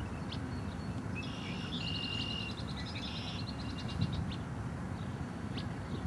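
A songbird singing about a second in: a steady high whistled note with a fast buzzy trill of repeated notes, lasting about two seconds, over steady low background rumble.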